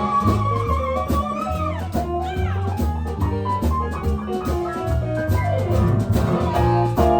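Live blues band playing an instrumental passage: a steady bass line and drums under a lead instrument that holds a long high note, then slides down about two seconds in.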